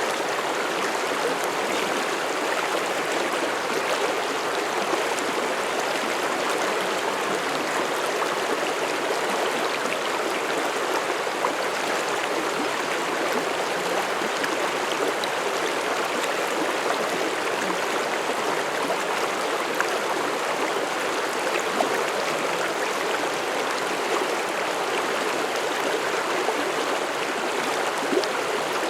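Mountain stream rushing and burbling over rocks, a steady wash of running water with small splashes here and there.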